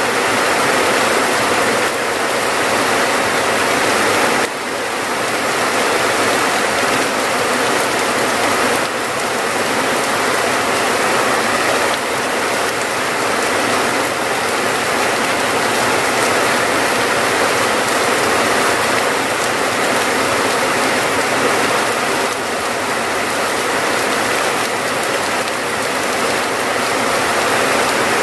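Steady heavy rain, a dense crackling patter of drops, with a brief dip in level about four and a half seconds in.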